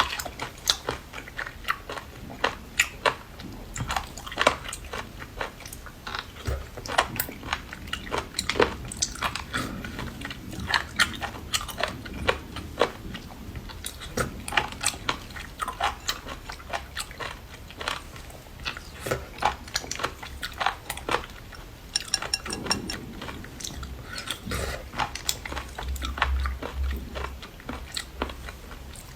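A person biting and chewing seafood, with many sharp, irregular crunches and clicks throughout.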